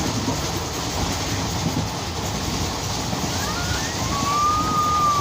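Train running with a steady rumble. About three seconds in, a single high whistling tone rises, holds for about a second, then falls away near the end.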